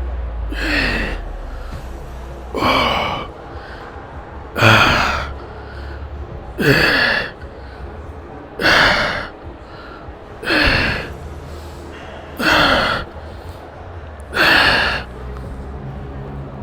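A person's forceful, voiced exhales, eight in a row about two seconds apart, each with a short falling tone, like breaths pushed out through hard effort. A low steady hum sits underneath.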